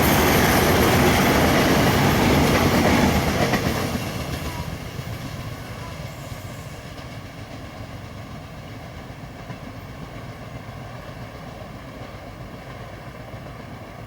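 Train passing close by, its wheels clattering over the track; the noise drops away about four seconds in as the end of the train goes by, fading to a low rumble.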